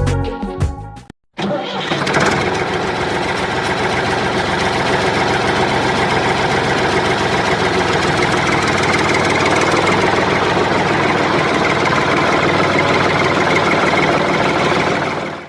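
Tractor engine sound effect: an engine starts abruptly after a short silence and then runs steadily at an even level, fading out near the end. A little music ends about a second in.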